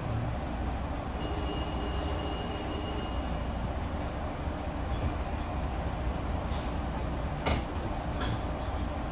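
Metro-North passenger train running along the track, a steady rumble heard from on board. About a second in, a high squeal with several steady pitches rings for about two seconds, and two sharp clicks come near the end.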